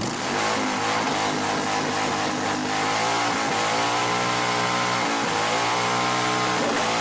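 Car engine revved and held at high revs, its exhaust blast driving air into a campfire to fan it alight; the engine note dips briefly twice before climbing back.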